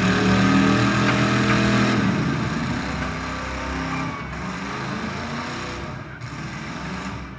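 A derby car's 350 Chevy small-block V8 running loud, heard from a camera inside the car. It holds steady revs for about two seconds, then eases down.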